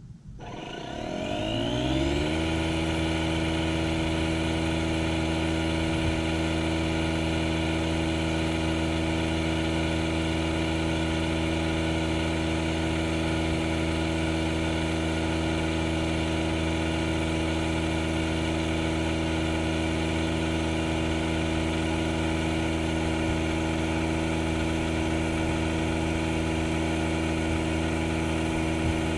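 DeWalt DCC020I cordless air inflator starting up, its pitch rising over about two seconds, then running steadily as it pumps air into a dead-flat car tire.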